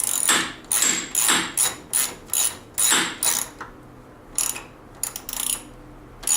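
Hand socket ratchet clicking in quick back-and-forth strokes, about two a second, as a bolt is worked on the snowmobile's suspension. The strokes pause about four seconds in, then a few more follow.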